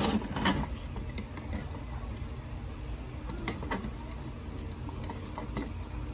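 Scattered clicks and scrapes of a printer drum unit's plastic and metal parts being worked loose by hand, over a steady low hum.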